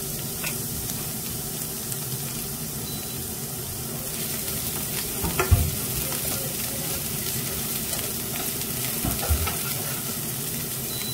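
Chopped scallions sizzling in hot cooking oil in a nonstick pan, stirred with chopsticks, with a steady frying hiss. Two brief knocks against the pan, about five and a half and nine seconds in.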